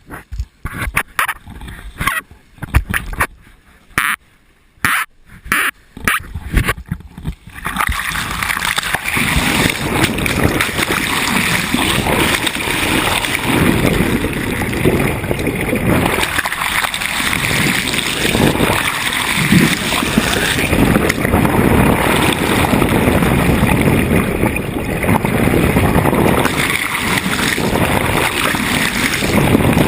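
Water rushing and splashing along a sailboat's hull as it moves through the sea. For about the first eight seconds the sound comes in short choppy bursts with gaps between them, then it settles into a steady rush.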